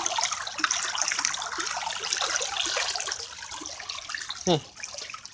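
Storm floodwater running in a ditch stream over rocks, a steady babbling, splashing trickle that fades gradually. A brief falling voice sound near the end.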